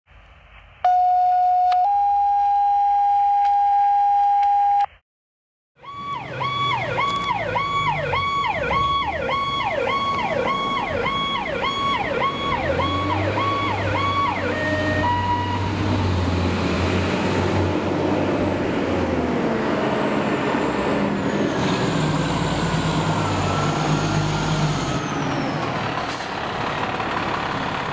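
A two-tone alert: a short lower tone, then a longer steady higher tone. After a brief gap, a fire engine's siren yelps in fast sweeps, about two a second, for some eight seconds. Then it slowly winds down over the truck's engine running.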